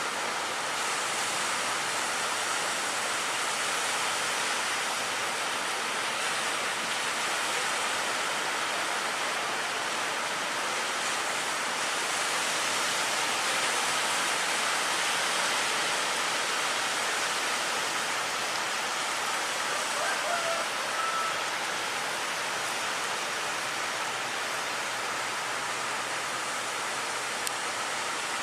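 Steady rushing noise of big waves breaking, an even roar without pauses.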